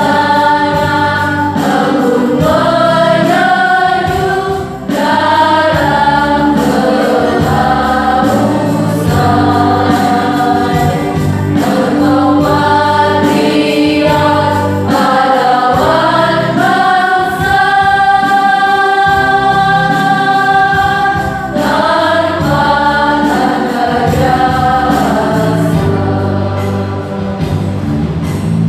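A choir singing a slow song together in sustained phrases, with one long held note about two-thirds of the way through.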